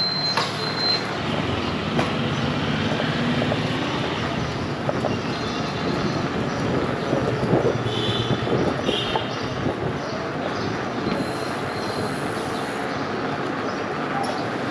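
Fat bike's wide tyres humming steadily on the road as it rolls along.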